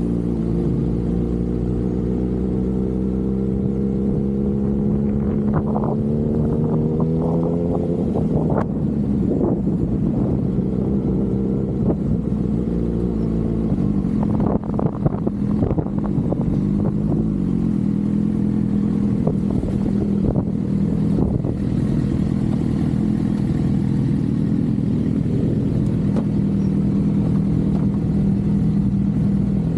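Motorcycle engine running under way, its pitch climbing steadily over the first several seconds as it accelerates. A choppy, gusty stretch follows in the middle, and then the engine settles to a steady cruise.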